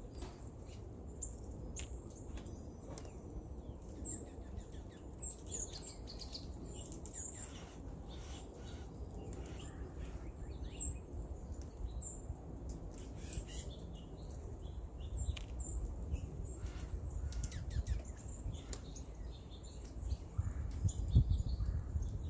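Small birds chirping outdoors: many short, high chirps and calls scattered throughout, over a steady low background rumble, with a brief low bump near the end.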